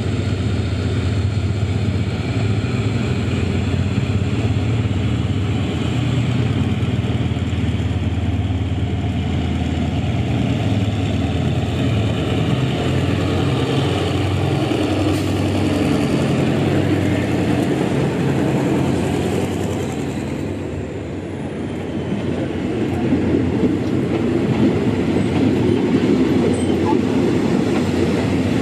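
Train at a railway station, its diesel engine running with a steady low drone. The sound fades briefly about two-thirds of the way through, then builds back up.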